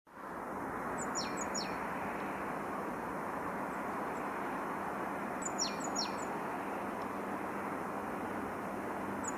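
Small songbird calling: a quick pair of sharply falling whistled calls about a second in, and another pair about five and a half seconds in, over steady background noise.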